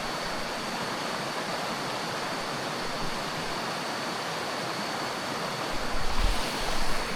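Stream water rushing steadily, with a faint steady high-pitched whine above it and some low rumbles near the end.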